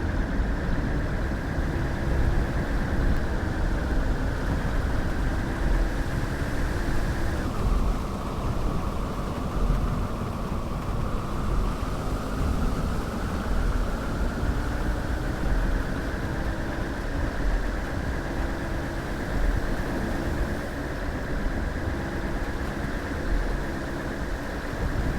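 A car on the move: a steady low engine and road rumble, easing off about a third of the way in and then building back up.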